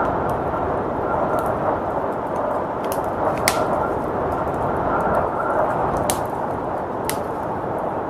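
Wood fire crackling, with a few sharp pops standing out about three and a half, six and seven seconds in. Under it runs a steady rushing blizzard wind.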